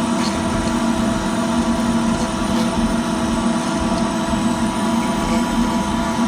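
CNC router spindle running steadily with a 1/8 inch end mill cutting PVC, a constant hum with several steady tones over the noise of a running dust collector.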